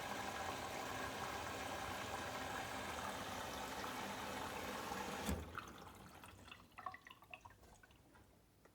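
Bosch WAX32GH4GB washing machine taking in water, a steady rushing flow that stops abruptly about five seconds in with a clunk, followed by faint drips and trickling.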